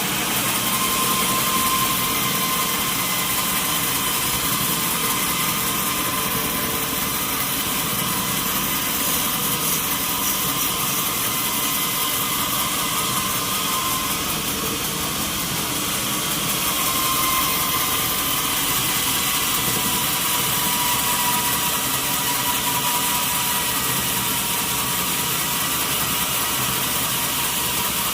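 Sawmill saw running steadily through a mahogany log, a dense mechanical noise with a thin high whine that swells slightly twice.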